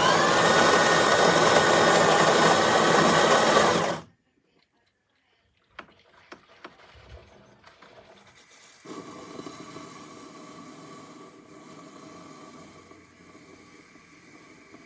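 De'Longhi Dinamica Plus espresso machine running. A loud mechanical burst starts and cuts off abruptly after about four seconds, a few clicks follow, and then a quieter steady hum with a high whine begins about nine seconds in.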